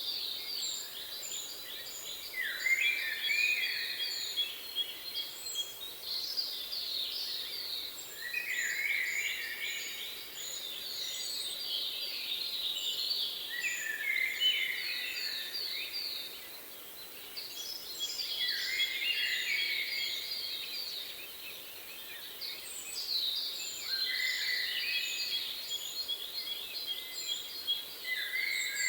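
Songbirds singing: one bird repeats a rapid song phrase that slides down in pitch, about every five seconds, while another gives a steady run of short, very high chips.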